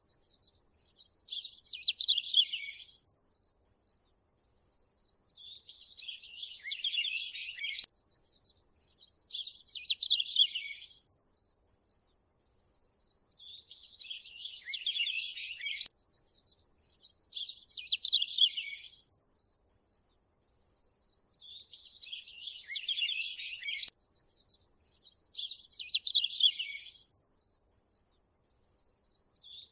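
Birds chirping in short bursts of song about every four seconds, over a steady high hiss. The same pattern of calls repeats every eight seconds, a short ambience loop.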